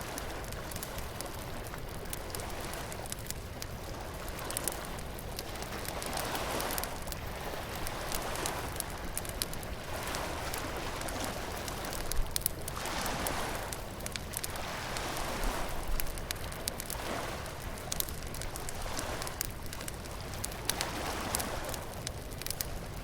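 Wood bonfire crackling and popping, with sharp snaps throughout and one louder pop about halfway, over surf washing in and out every few seconds.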